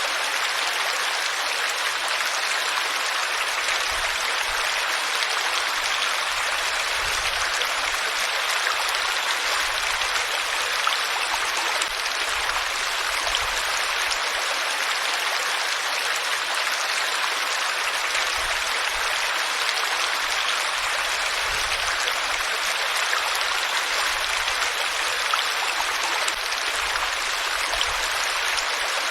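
Flowing water, a steady even rushing with no breaks.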